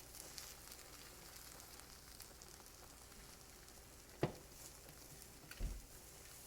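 Egg whites frying in a hot pan, with a faint high sizzle and crackle throughout. A sharp knock comes about four seconds in, and a duller thump follows over a second later.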